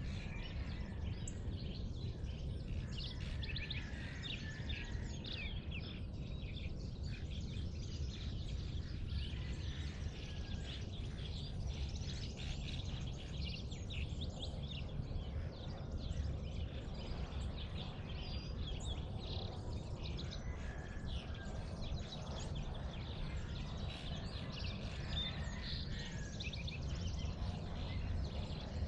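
Birds singing and chirping at dawn, many short calls and trills overlapping, over a steady low rumble.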